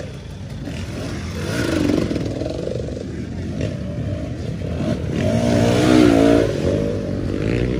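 Motocross bike engine running and revving up and down, with the strongest revving about five to six seconds in.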